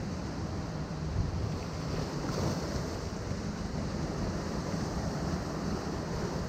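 Ocean surf washing against rocks, a steady rushing wash with a slight swell about two and a half seconds in, over a low rumble of wind on the microphone.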